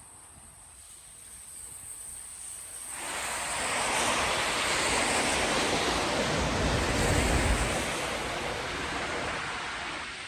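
A vehicle passing on a snowy street, its tyres hissing through wet snow: a rushing noise that swells about three seconds in, deepens at its loudest, and fades away near the end.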